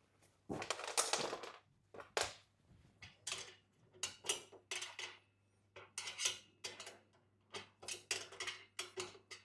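Irregular sharp clinks and rattles of metal bolt hardware being handled as a bolt is fitted through a bed upright and tightened, with a longer rattle about a second in.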